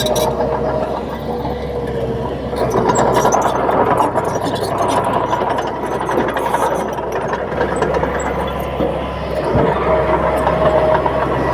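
Komatsu D31P bulldozer's diesel engine running steadily as it works, swelling a little twice, with scattered metallic clicks over the rumble.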